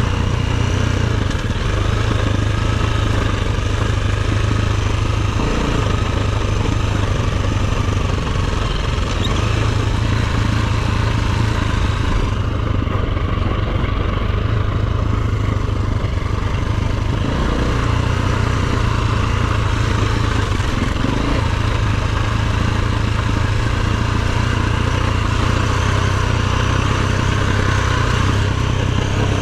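Dirt bike engine running as the bike is ridden off-road, easing off briefly about halfway through before picking up again.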